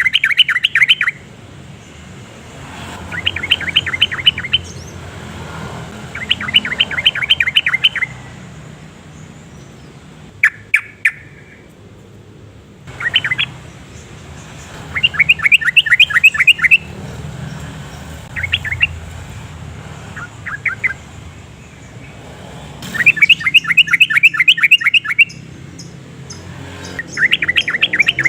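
Yellow-vented bulbul singing: short bursts of rapid, bubbly chirps, about ten phrases, each lasting one to two seconds, with a pause of a second or two between them.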